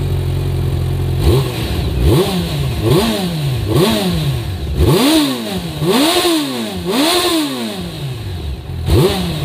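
Motorcycle engine idling, then revved again and again with sharp throttle blips about once a second, each rev climbing quickly and falling back slowly.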